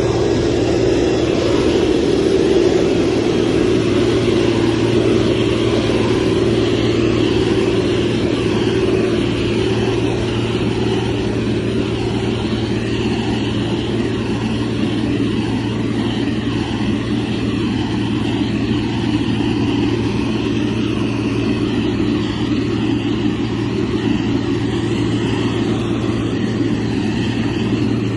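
Heavy construction machine's diesel engine running steadily, a continuous deep drone without pauses or sharp knocks.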